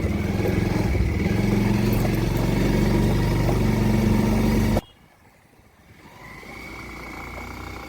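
Kawasaki motorcycle engine running steadily under way. About five seconds in the sound cuts off abruptly, leaving a much fainter steady hum.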